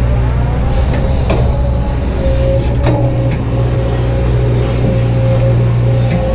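Kobelco SK200-8 hydraulic excavator running steadily under working load, its diesel engine and hydraulics holding a constant note, with a few sharp clanks: three spread through the clip, the last near the end.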